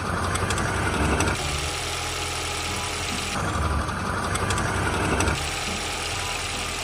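MINI R59 four-cylinder engine idling steadily, with a higher hiss that grows and fades about every two seconds.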